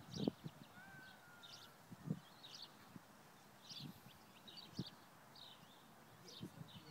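Small birds chirping faintly, short high chirps coming about twice a second, with one thin gliding whistle about a second in. A few soft low thumps sound between the chirps.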